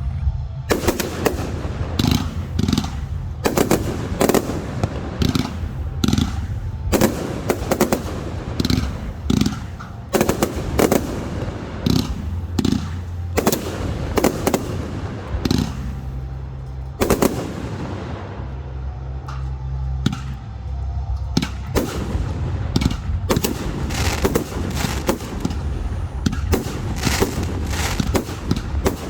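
Fireworks display: a rapid barrage of exploding aerial shells, many sharp bangs in quick succession. The bangs thin out briefly a little past the middle, then pick up again.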